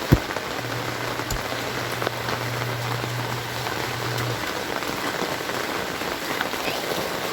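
Heavy rain falling with a steady hiss. A loud low thump comes just at the start and a softer one about a second later, and a low steady hum runs through the first half.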